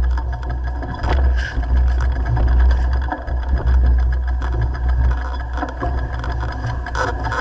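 Mountain bike descending a dirt trail: a steady low rumble of tyres and wind on the microphone, with scattered rattles and clicks from the bike over rough ground.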